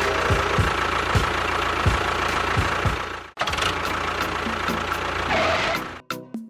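An engine running with irregular low knocks. It cuts off sharply about three seconds in, then runs again until just before the end.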